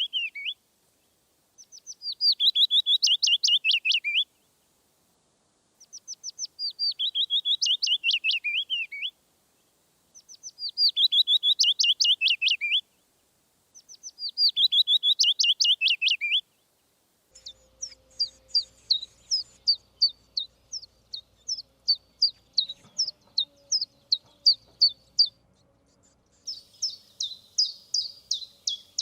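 Songbirds singing. First a repeated song of quick notes that fall in pitch, each phrase lasting about three seconds, with a pause of about a second between phrases. Then, after an abrupt change of background, a long series of sharp high chirps about two a second, turning into a faster, denser trill near the end.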